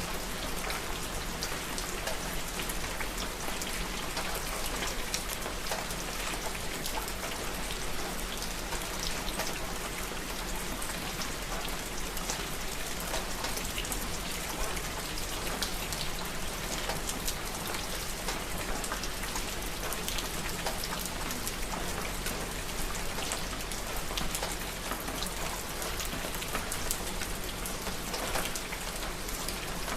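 Steady rain falling, with a constant hiss of many fine drops pattering on a surface.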